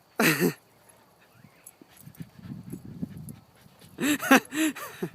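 Jack Russell terrier barking: one sharp bark just after the start, then a quick run of three barks about four seconds in.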